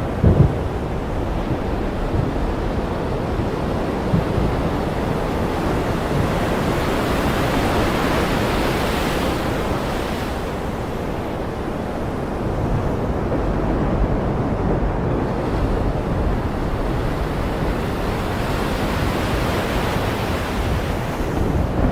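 Ocean surf breaking and washing in a continuous rush, swelling about eight seconds in and again near the end, with a brief low rumble of thunder at the very start.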